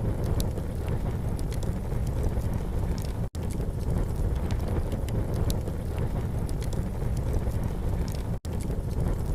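Campfire crackling, with short sharp pops scattered over a steady low rumble. The sound cuts out for an instant twice.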